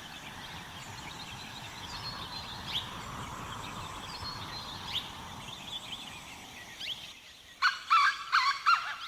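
Outdoor ambience with birds chirping now and then. Near the end, a loud bird call repeated quickly, about three times a second, takes over.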